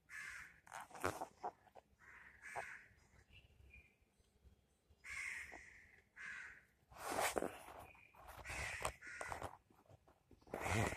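A bird calling in a series of short, harsh, crow-like calls, some in quick succession, with a few low thumps among them; the loudest comes near the end.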